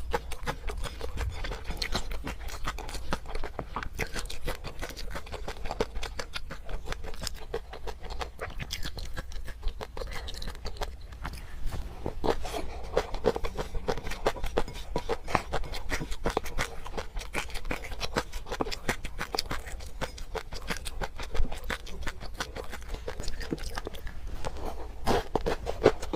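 Close-miked chewing of garlic with peanut sauce: a dense, continuous run of quick wet mouth clicks and crunches.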